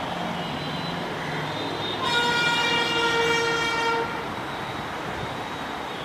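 A Chennai Metro train sounding its horn in one steady blast of about two seconds, over continuous road traffic noise.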